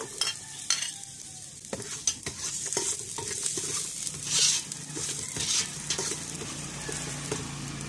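Garlic and ginger sizzling in hot cooking oil in a pot while a spoon stirs them, with frequent short clicks and scrapes of the spoon against the pot.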